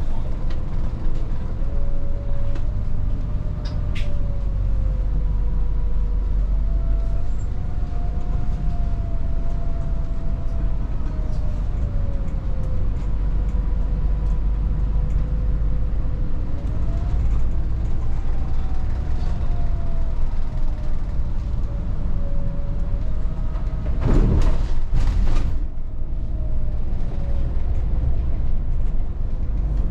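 Volvo 8900 city bus driving, heard from inside: a steady low engine and road rumble with a drivetrain whine that rises and falls with speed. About 24 s in, a loud noisy burst with several sharp clicks lasts about a second and a half.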